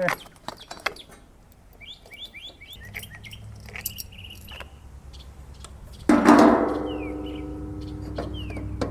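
A single sharp metal clang about six seconds in that rings on and fades over a few seconds, from the hammer-and-puller work that frees the mower's flywheel from its crankshaft taper. Small birds chirp earlier, and a low steady hum runs underneath.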